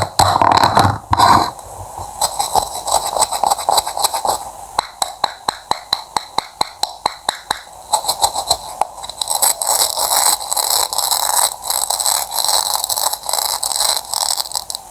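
Cutting sounds: a blade making a quick run of crisp clicks and scrapes, several a second, denser and louder in the first second or so.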